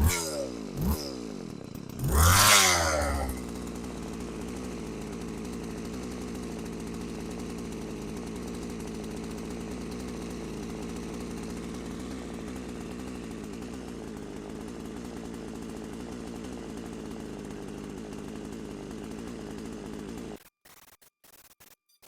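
McCulloch 3516 two-stroke chainsaw engine revved in quick blips and once hard, then settling into a steady idle, just revived after years unused. It cuts off suddenly near the end.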